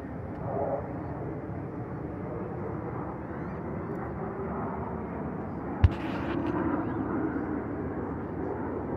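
Steady rumble of distant aircraft, with one sharp knock about six seconds in.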